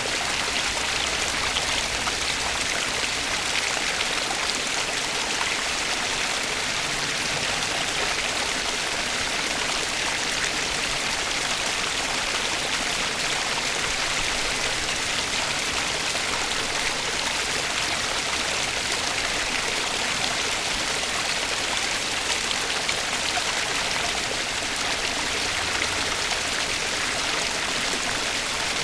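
Flowing stream water running steadily, an even rushing hiss with no breaks.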